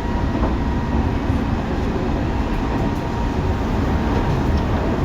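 Running sound of a Tobu 9050 series electric train: a steady rumble of wheels and running gear on the track, with a faint steady whine above it.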